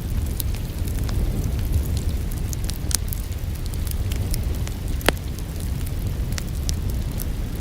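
Wood fire crackling in a fireplace: scattered sharp pops and snaps, the loudest about five seconds in, over a steady low rumble of the flames.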